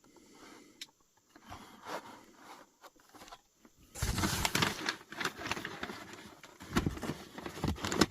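Model-kit packaging being handled. A few light clicks come first, then from about halfway there is a dense rustling and crinkling with many small clicks.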